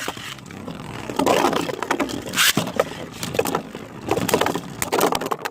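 Spinning Beybladed tops, a 3D-printed Drahken with a rubber driver against Calzar, whirring and grinding around a plastic stadium with many sharp clicking clashes, and a bright rasping stroke about two and a half seconds in. The battle ends in a burst finish, one top knocked apart.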